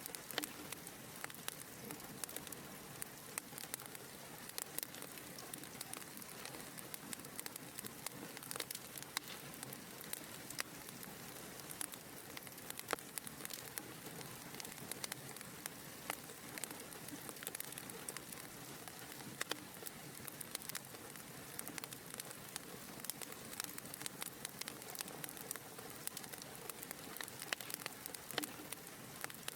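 Wood fire burning in a fireplace: a steady soft hiss with many small, irregular crackles and pops throughout.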